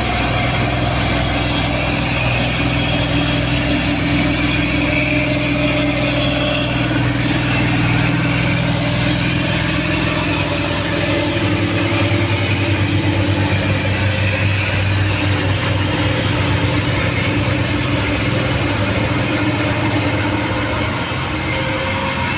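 Truck engine running steadily at idle, loud and even throughout.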